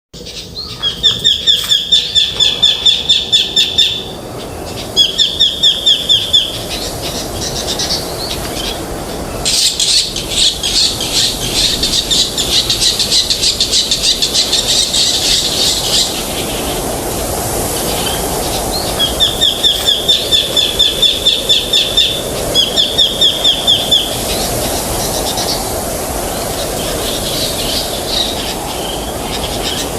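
Birds singing in rapid trills of quick repeated high notes, in several bouts, with a denser, buzzier run of notes from about ten to sixteen seconds in. A steady rushing of wind runs underneath.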